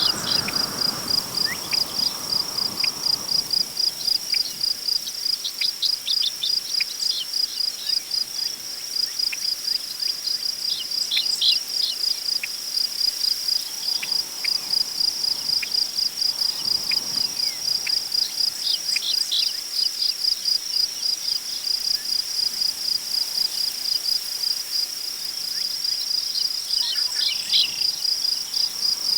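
Crickets chirping in a steady, rapid pulsing trill, with scattered short bird chirps. Soft gusts of wind in tall grass swell near the start and again about halfway through.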